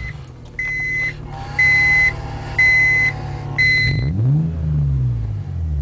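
Acura RL's V6 idling through a Remus cat-back exhaust while the car's warning chime beeps about once a second, four times. About four seconds in the engine is revved once, rising and falling back to idle.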